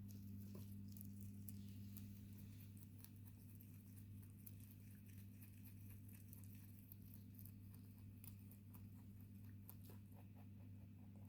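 Electric fan humming steadily, with faint quick crunching clicks of a pet rabbit chewing its food, coming faster near the end.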